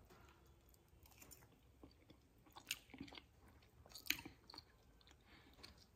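A person faintly chewing a mouthful of roasted Cornish hen, with a few soft mouth clicks and smacks, the clearest about three and four seconds in.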